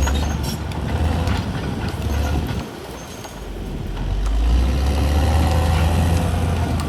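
CAT D6R XL bulldozer's diesel engine running under load; it drops off briefly about midway, then builds back up.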